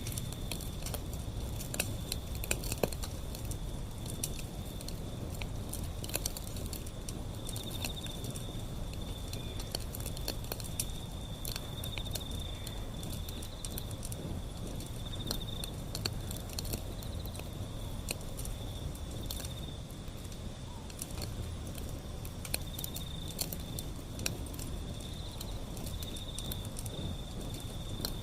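Wood fire burning, with a low rumble and irregular sharp crackles and pops of the burning wood. A steady high trill runs underneath.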